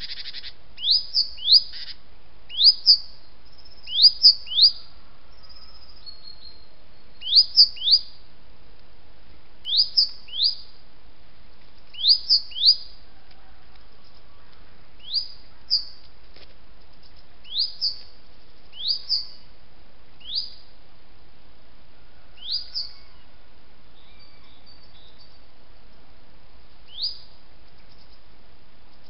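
A bird calling: short, sharp rising chirps, mostly in twos and threes a few tenths of a second apart, repeated every two or three seconds, growing fainter and sparser in the second half.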